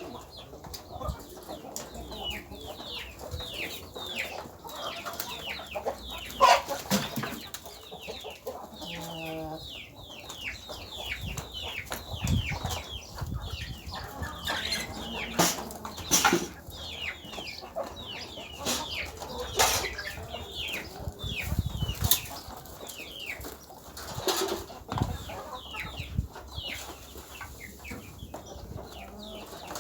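A flock of chickens feeding, with many short falling peeps and chirps throughout and scattered sharp knocks.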